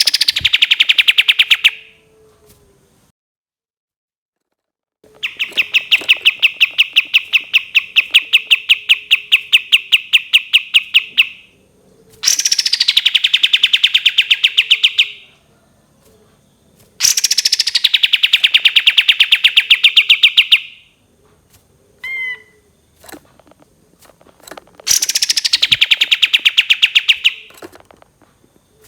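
Kapas tembak songbird singing its long 'tembakan' trill, a very fast, high run of repeated notes. It comes in several bursts of a few seconds each, most opening with a quick falling note, the longest about six seconds.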